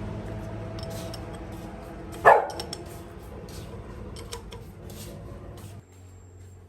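A dog barks once, loud and short, about two seconds in, over a steady low hum that cuts off near the end.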